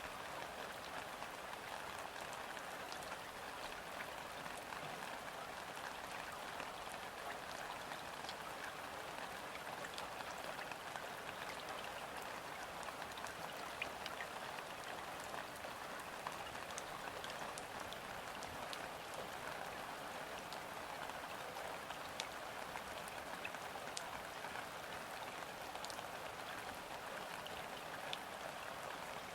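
Gentle rain falling steadily on a river's surface: an even hiss of drops on the water, with many small individual drop ticks scattered through it.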